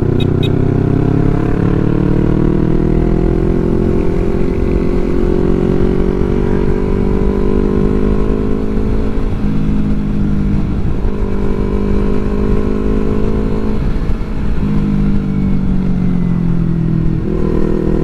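Yamaha R3's parallel-twin engine running under way. Its note climbs slowly over the first several seconds, dips briefly three times in the middle, then falls and picks up again near the end.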